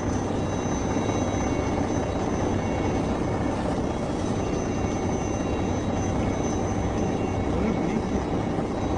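Aircraft engine noise: a steady, loud rumble with a thin high whine over it, unbroken for the whole stretch.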